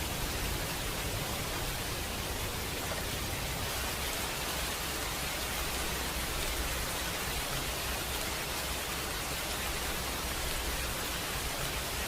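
Steady rainfall: an even, unbroken hiss of rain with no distinct drops or thunder standing out.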